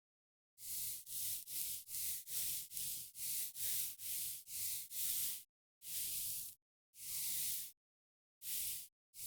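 A run of short, hissing swishes from close-up skincare ASMR handling. They come about three a second at first, then slower with short gaps.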